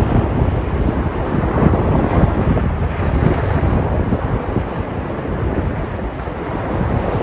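Sea surf washing and breaking on the shore, a continuous rushing with slow swells in level, with wind rumbling on the microphone.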